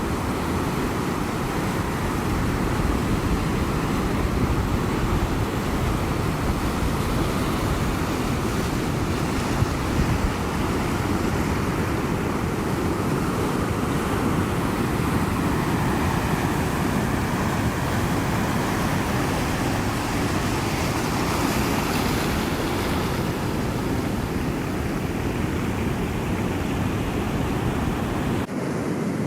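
Ocean surf: a continuous wash of breaking waves with a deep rumble underneath, swelling a little more than two-thirds through. The high hiss drops off abruptly just before the end.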